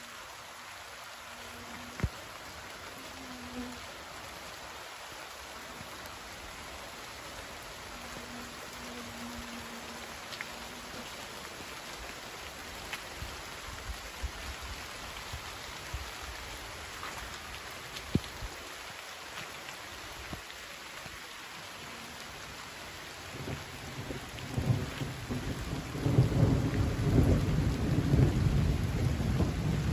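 Steady rain with scattered drops ticking on a surface and a couple of louder single drip hits. Low thunder starts rumbling a few seconds before the end and grows loudest in the last few seconds.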